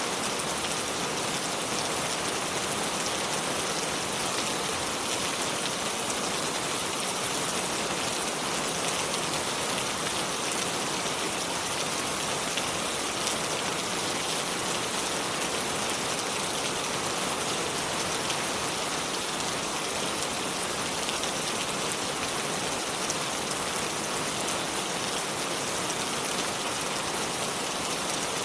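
Steady flowing water of a shallow river running over stones, an even hiss with fine pattering and no change throughout.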